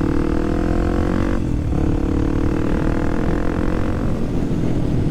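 Kawasaki KLX300SM's single-cylinder engine pulling under way, its revs climbing slowly, breaking off briefly at a gear change about a second and a half in, then climbing again before easing off about four seconds in. Wind rumble on the microphone runs underneath.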